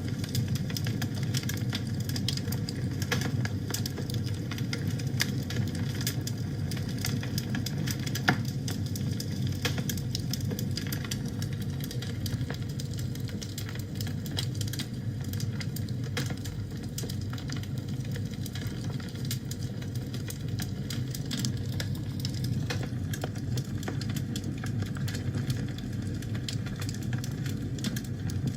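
Wood fire in a fireplace crackling: frequent small, irregular snaps over a steady low rumble of the flames, with one sharper pop about eight seconds in.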